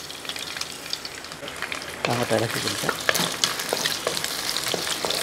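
Thin coconut pieces sizzling and crackling in hot coconut oil in a kadai, stirred with a wooden spatula. The sizzle grows louder about two seconds in.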